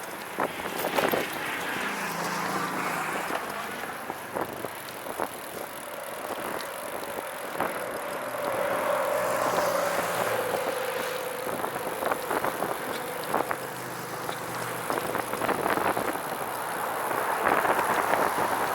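Recumbent trike rolling along a road: steady tyre and drivetrain noise with scattered sharp clicks.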